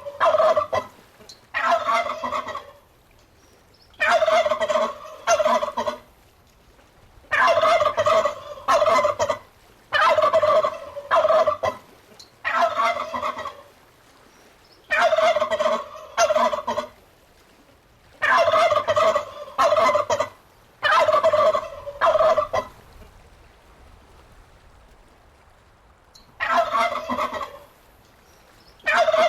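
Turkey gobbling over and over, a rattling gobble of one to two seconds every two to three seconds, with a pause of about four seconds before one more gobble near the end.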